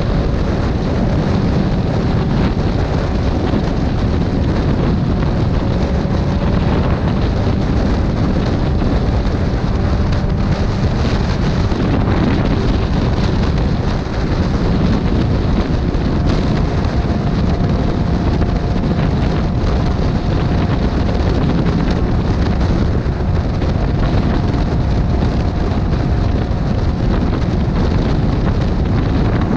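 Motorcycle riding at speed: heavy wind rush over the microphone, with the engine's drone faintly underneath, its pitch drifting slowly up and down.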